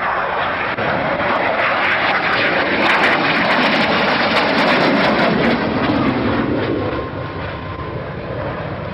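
Aircraft engine roar, likely an aircraft passing, that swells to its loudest midway and eases off near the end.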